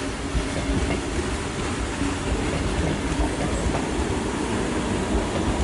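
Sydney Tangara electric train passing slowly, with a steady rumble of its wheels on the rails.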